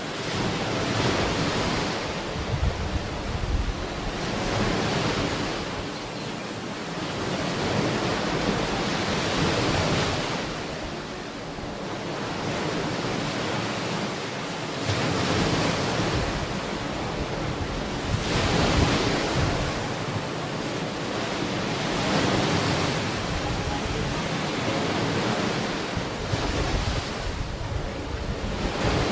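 Ocean waves breaking and washing onto a beach, the surf rising and falling every few seconds, with wind rumbling on the microphone.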